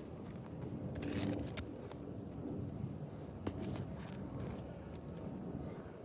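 Roofer handling asphalt shingles and nails on a roof: faint rustling and a few light, scattered clicks and clinks.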